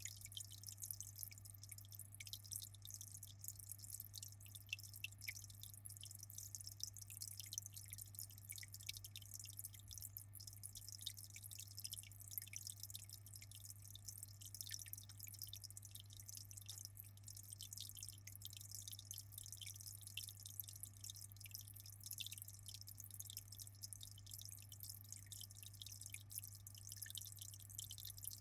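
Aquarium water dripping and trickling in a continuous patter of fine splashes, over a steady low hum.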